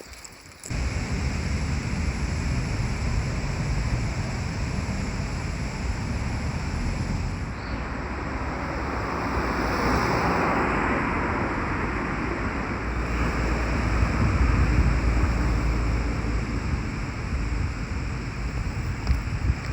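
Steady outdoor rushing noise with a deep rumble, starting abruptly just under a second in and swelling around the middle.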